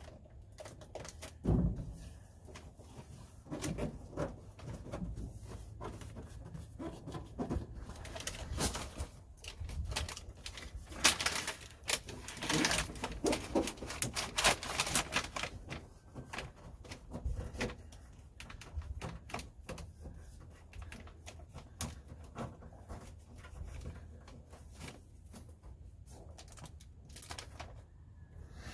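Sound-deadening sheet being handled and pressed into place by hand: irregular crinkling, rustling and light taps, busiest in the middle, with a few dull thumps.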